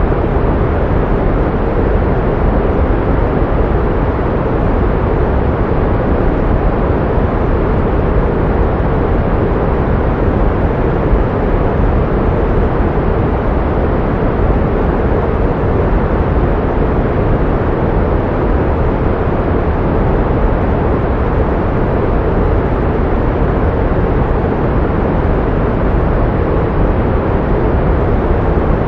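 Pink noise: a steady, even hiss with more weight in the low end than the high, with no changes.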